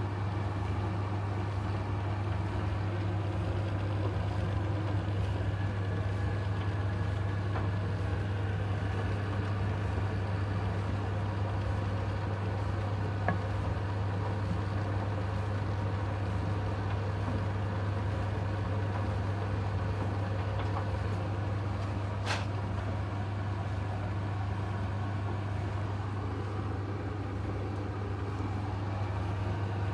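Zanussi TD61 tumble dryer running: a steady low motor hum with an even wash of noise over it, and one sharp click about three-quarters of the way through.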